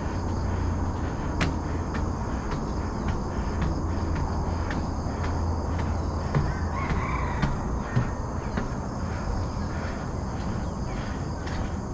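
A runner's footfalls, a regular beat of about two steps a second, over a low rumble of wind and handling noise on an action camera's microphone. A brief bird call comes about seven seconds in.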